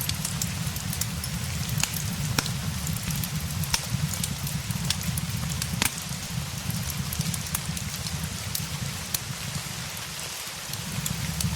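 Steady rain with the scattered sharp crackles and pops of a wood fire, over a steady low rumble.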